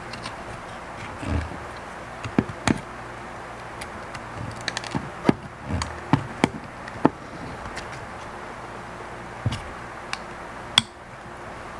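Scattered clicks, taps and a few dull knocks of tools and plastic parts being handled while an Omron H7CN electronic counter is taken apart, over a steady low hum.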